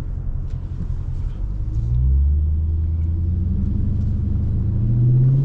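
Dodge Scat Pack's 6.4-litre HEMI V8 with a mid-muffler delete, giving a low rumble that gets louder about two seconds in, then rising steadily in pitch near the end as the car accelerates.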